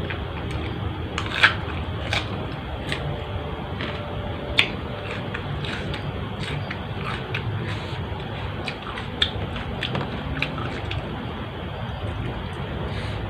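Close-up eating sounds: food being bitten and chewed, with sharp crunches at uneven intervals, the loudest about a second and a half in and again at about four and a half seconds, over a steady background noise.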